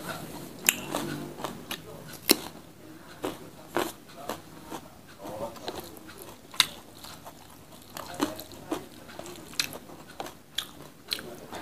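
Close-up mouth sounds of eating honey sweet potato and rice: chewing with scattered sharp, wet clicks and smacks at an uneven pace.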